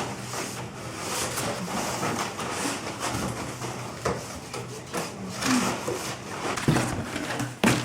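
Rustling and rubbing of things being handled and packed, with scattered light knocks and a couple of louder knocks near the end.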